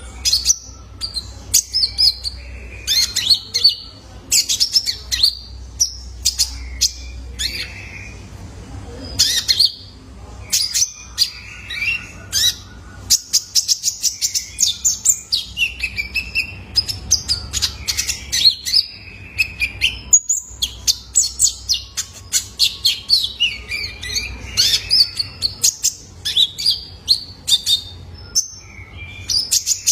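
Young male olive-backed sunbird giving rapid, high-pitched chirps and short twittering trills in quick succession, with only brief pauses.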